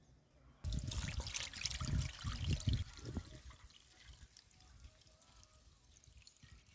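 Water splashing and pouring. It starts suddenly less than a second in and is loudest for about two and a half seconds, then dies down to a faint trickle.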